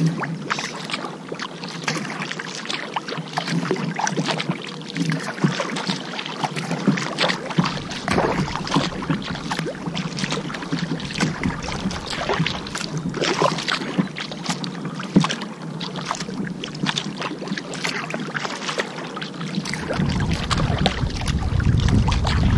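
Kayak paddling: the paddle blades dip and splash in the water over and over, with dripping and sloshing in between. A low wind rumble on the microphone comes in near the end.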